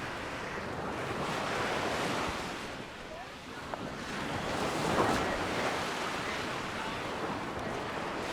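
Sea waves breaking and washing onto a sandy beach, coming in swells with the loudest about five seconds in, with wind buffeting the microphone.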